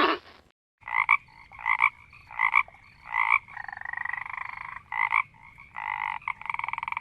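Repeated animal calls: short pitched calls about every two-thirds of a second, with longer trilling calls in the middle and near the end.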